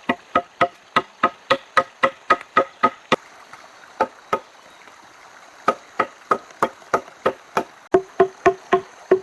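A hand tool striking wood in a fast, steady rhythm, about four blows a second, each with a short hollow ring. The blows pause about three seconds in, apart from two single hits, then pick up again. Near the end the ring drops to a lower pitch.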